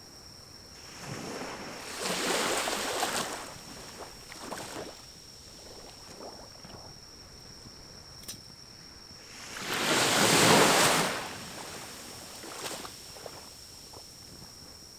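Small pine-cone fire burning in a compact wood-burning stove, with an occasional sharp pop. Over it come two swells of rushing, wind-like noise of about two seconds each, the second louder, and a faint steady high tone lies underneath.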